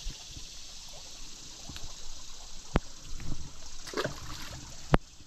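Creek water trickling against a steady high background of insects, with a few sharp clicks or knocks in the second half.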